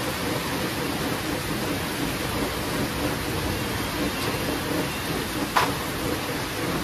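Steady rain falling, with one short sharp crack about five and a half seconds in.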